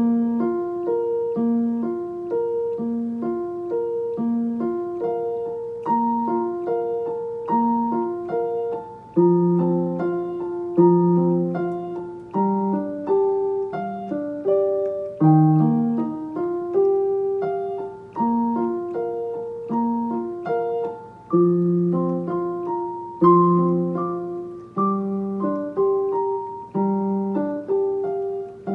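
A piano played solo, beginning a student recital piece. A repeating figure of notes in the lower-middle register keeps an even pulse, and deeper bass notes join in about nine seconds in.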